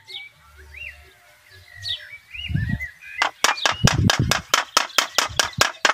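Small birds chirping, then from about halfway through a fast, even run of sharp clacks, about five a second.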